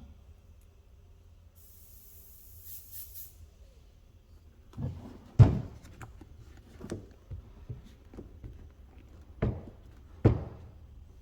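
A short hiss of spray about two seconds in, then a string of knocks and thumps from things being handled and set down, the loudest about five and a half seconds in.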